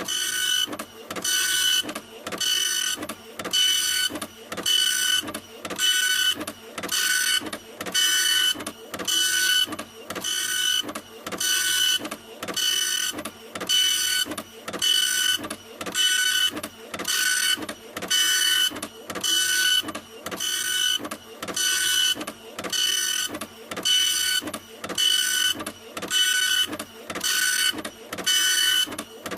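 Printer running continuously, its print head sweeping back and forth in an even rhythm of a little under one pass a second. Each pass carries a steady high whine.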